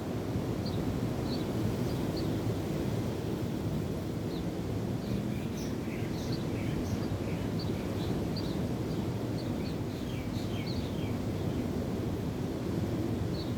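Steady rush of wind and waves, with small birds giving many short, high chirps, busiest in the middle.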